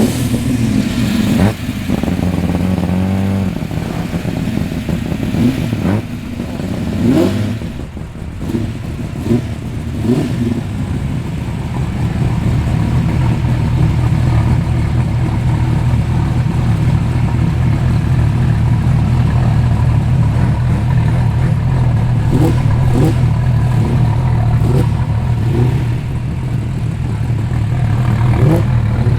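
Several performance cars' engines rumbling as they roll in slowly one after another, with throttle revs in the first few seconds and a heavier, steady low engine rumble from about twelve seconds in.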